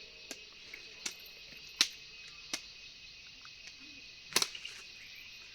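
Steady high-pitched insect chorus, with about five sharp taps or clicks, the loudest two near two seconds in and past four seconds in.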